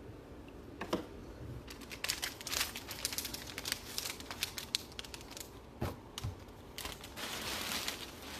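Trading card pack wrappers crinkling as packs are torn open and cards are handled: a dense run of rustling and crackling through the middle, with a few sharper clicks.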